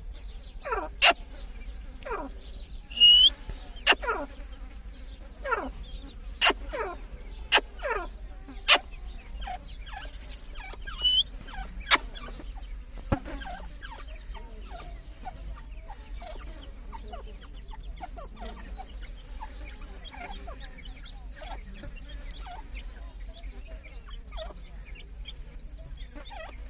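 Grey francolin (dakhni teetar) calling: a run of short calls, each falling in pitch, about one a second, with several sharp loud clicks among them. The calling thins out after about thirteen seconds, leaving only faint calls.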